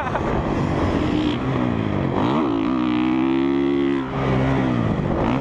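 Honda CRF450R single-cylinder four-stroke dirt bike engine revving under throttle while riding. About two seconds in the revs dip and climb, hold steady for over a second, then drop and climb again.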